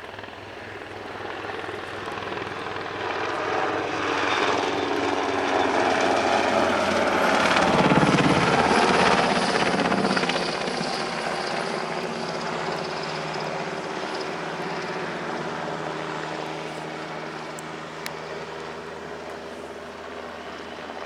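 NH90 twin-turbine helicopter flying past, its rotor and turbine sound growing louder to a peak about eight seconds in, then dropping in pitch and fading somewhat as it moves away.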